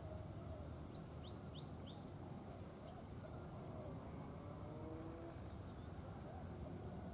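Birds chirping: a quick run of four short falling chirps about a second in, then a steady series of short repeated chirps, about three a second, near the end, over a low steady rumble.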